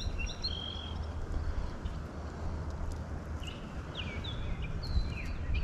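Birds chirping: short, high whistled notes near the start and again from about the middle on, several of them falling in pitch. Under them is a steady rushing background with a low rumble.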